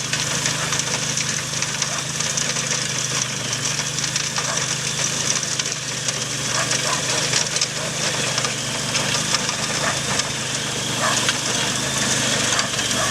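Engine of a walk-behind garden tractor with a rotary tilling attachment, running steadily.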